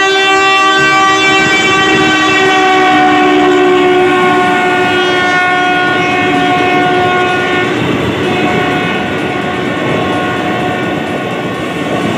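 Diesel locomotive's horn held in one long, steady multi-tone blast that fades out about eight seconds in, leaving the rumble and clatter of passenger coaches rolling past close by.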